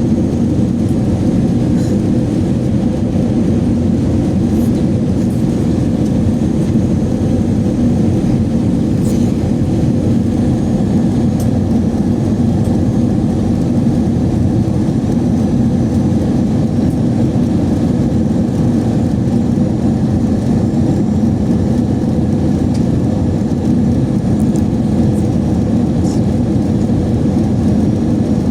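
Steady cabin drone of an Airbus A321 in flight: engine and airflow noise heard from a passenger seat, loud and unchanging, with a few faint ticks.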